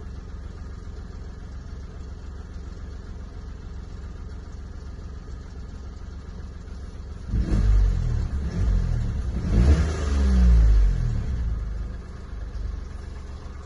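A 2008 Toyota Yaris engine idling steadily, then revved twice in quick succession about seven seconds in, the pitch rising and falling with each rev, before settling back toward idle near the end.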